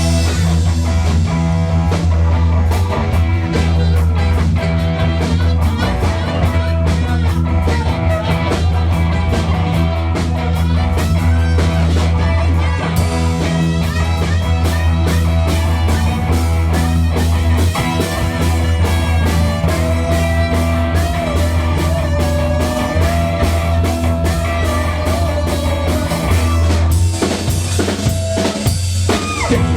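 Rock music with electric guitar, bass and a steady drum kit beat, played loud throughout.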